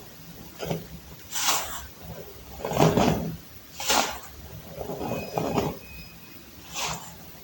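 Blocks of baking soda being crushed, crunching and crumbling in about six separate crunches, roughly one a second, the loudest a little under three seconds in.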